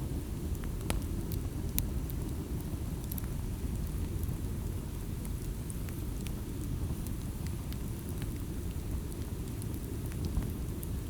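Wood campfire burning: scattered sharp crackles and pops over a steady low rumble, with a louder pop near the end.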